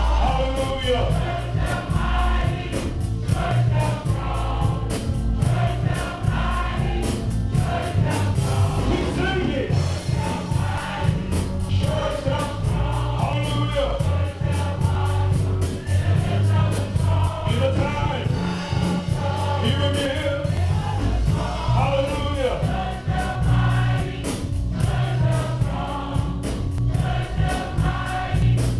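Congregation singing an upbeat gospel song together, backed by a band with a heavy bass line and a steady beat.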